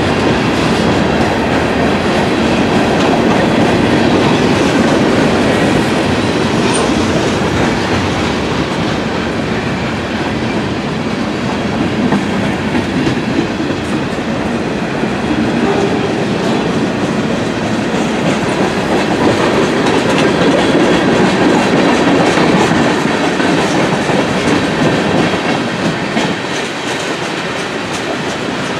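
Railcars of a passing train rolling by in a steady, loud rumble, with the wheels clicking over the rail joints.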